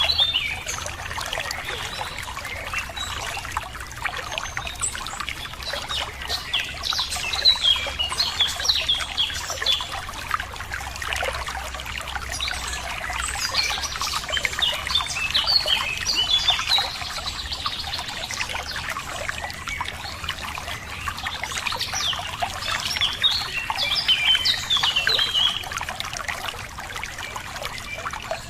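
Running water trickling and splashing steadily, with small birds chirping in several short bursts of quick high notes over it.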